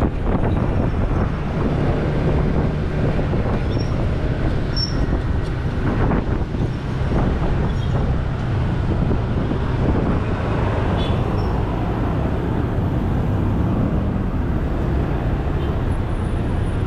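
Fire engine on the move: a steady low engine hum and road noise with no siren.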